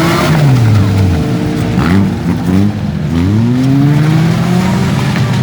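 Demolition derby cars' engines revving, several at once, their pitch falling and then rising again as the drivers throttle up and down.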